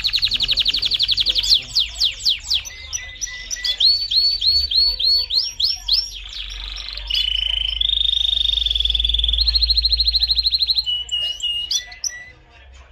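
Male domestic canary singing a loud song of changing phrases: rapid trills, runs of sweeping notes and held rolls, switching every second or two. The song drops away near the end.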